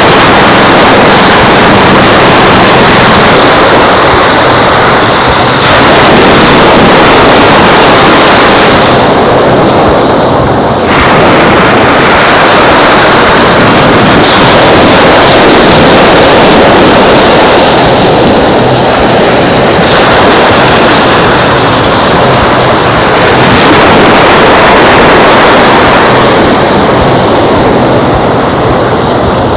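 Surf washing on the beach mixed with wind on the microphone: a loud, steady rush that shifts abruptly a few times.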